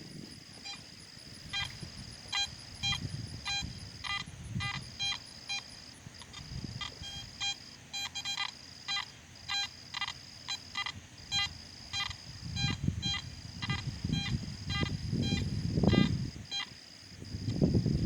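Garrett AT Max metal detector beeping in short repeated tones, about two a second, as the coil is swept back and forth over a target that reads 77. A steady high insect buzz runs underneath, and low rumbling noise swells near the end.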